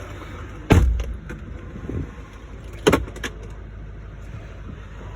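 2019 Chevrolet Silverado 3500 HD's 6.6-litre Duramax V8 turbodiesel idling with a steady low rumble. A sharp clunk comes about a second in and another about three seconds in, with a few lighter clicks between.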